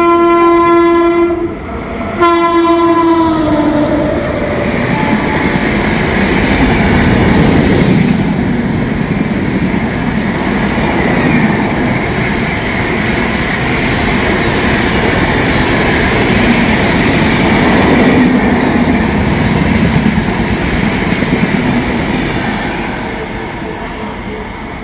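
Indian Railways WAP-7 electric locomotive sounding its horn twice, the second blast dropping in pitch as it passes. Then the express's coaches rush by with the clickety-clack of wheels over rail joints, fading near the end.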